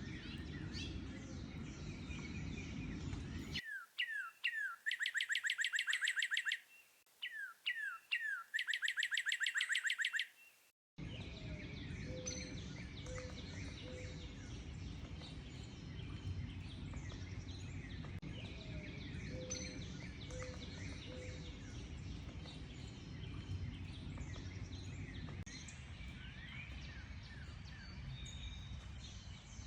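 Mixed wild birdsong over a steady low rumble of background noise. Early on the background drops away for two songs by one bird, each a few quick falling notes followed by a fast, loud trill lasting about two seconds. Afterwards the chorus and rumble resume, with a low hooting call of three notes heard twice.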